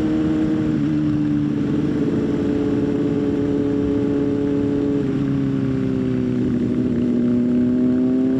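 Motorcycle engine running at a steady cruise, heard from the rider's position with rushing wind. Its pitch dips slightly twice, then climbs gradually near the end as the throttle opens.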